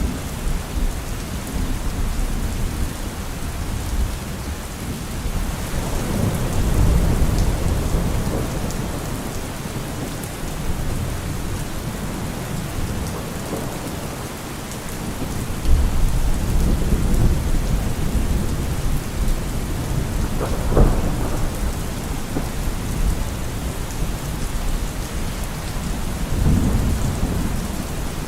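Steady rain with thunder rumbling several times, the rumbles swelling and fading, and a sharper thunderclap about two-thirds of the way through.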